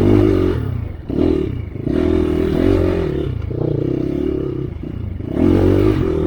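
Enduro dirt bike engine revving in repeated bursts, rising and falling in pitch, with short throttle-offs in between, as the bike slithers through slippery mud with its rear end sliding out.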